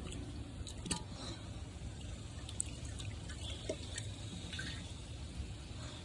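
Faint drips and small splashes of water in a toilet bowl, with scattered light clicks as a dish towel is handled into the water.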